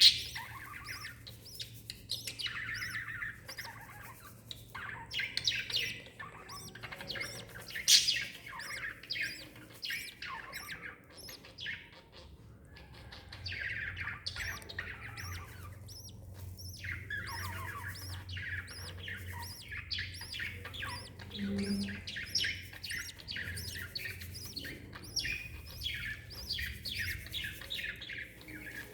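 Lovebirds chirping in bouts of rapid, evenly repeated short notes lasting a few seconds each, with one sharp click about eight seconds in and a faint steady hum underneath.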